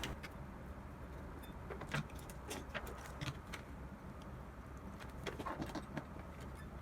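Scattered light clicks and taps of hands handling a power cord's wires and small machine parts, over a low steady background hum.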